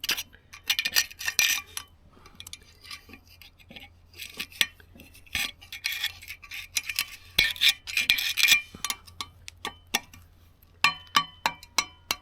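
Irregular metallic clinking and scraping of hand tools on rusty exhaust parts, with a few short ringing metal clinks near the end.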